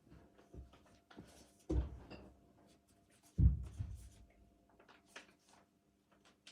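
Paper rustling and small handling clicks, with two dull thumps, one a little under two seconds in and a louder one about three and a half seconds in.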